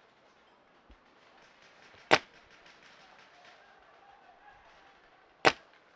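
Two single shots from a close-by paintball marker, about two seconds in and again about three seconds later, each a sharp crack, over faint background field noise.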